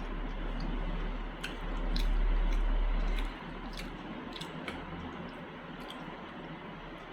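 Close-up chewing of saucy meat: scattered wet clicks and smacks of a mouth eating, over a steady hiss. A low rumble swells about two seconds in and stops a little after three seconds; it is the loudest part.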